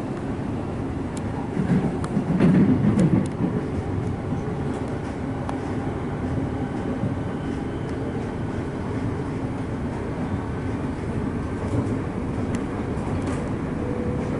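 Electric suburban train running on track, heard from inside the carriage: a steady rumble of wheels on rail with scattered faint clicks, swelling louder for about a second roughly two seconds in.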